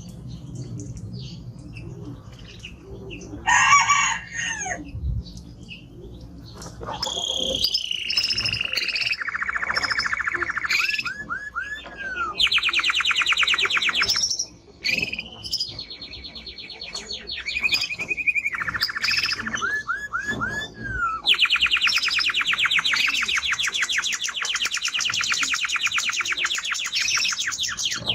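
Male timbrado canary singing: after a brief call, a long song of fast trills and rolling, falling phrases, with two long rapid trills in the second half.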